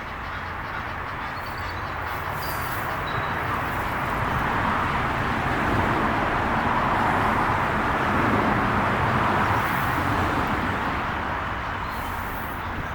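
A passing vehicle: a smooth rushing noise that builds to its loudest about two-thirds of the way through and then fades. A few faint, high bird chirps sound in the first three seconds.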